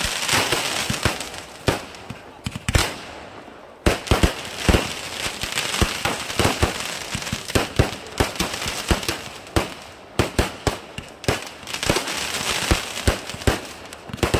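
Fireworks display: a rapid, irregular string of sharp bangs from bursting shells over a continuous crackling hiss. The hiss thins briefly a little under four seconds in, then a loud bang picks it up again.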